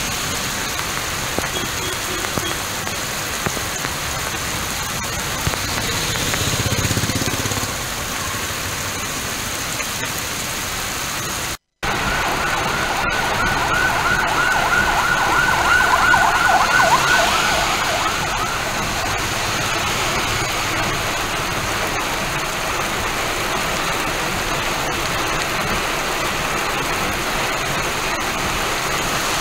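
Heavy rain falling steadily on a city road, an even hiss. In the second half a siren sounds for several seconds with a fast warbling pitch, the loudest thing heard.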